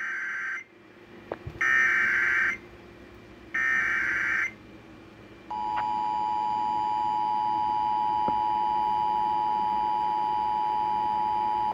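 Emergency Alert System tones announcing a severe thunderstorm warning: three short bursts of screeching digital header data, then the long two-note attention tone sounding steadily for about six seconds.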